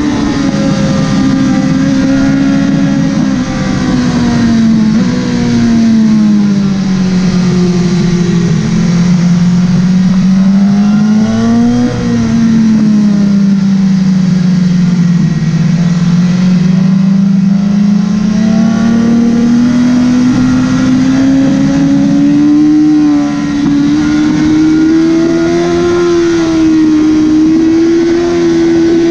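Motorcycle engine running hard on a racetrack, with steady wind rush. Its note sinks over the first several seconds, peaks sharply about twelve seconds in, dips again, then climbs slowly through the second half.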